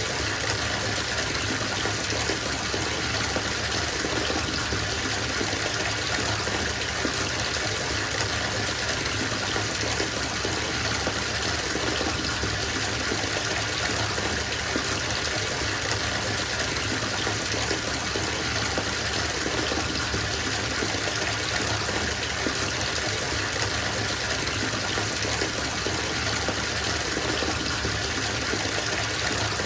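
Bathtub filling from the tap: water gushing steadily into the tub in an even, unbroken rush.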